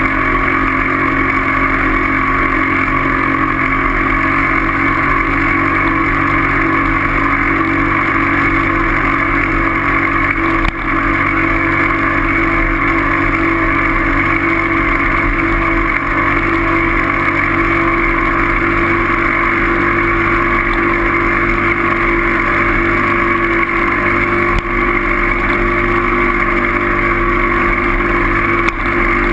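A steady, unchanging motor-like drone mixed with rushing noise, as of a vehicle moving at constant speed.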